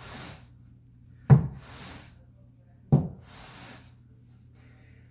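Floor brush grooming carpet in strokes: twice a knock as the brush is set down, each followed by a short swish of the bristles dragged through the carpet pile.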